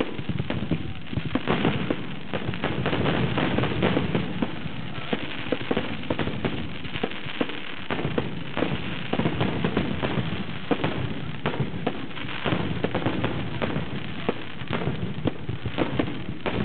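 Fireworks finale: many fireworks going off together in a continuous rapid barrage of bangs and crackling pops, with no let-up.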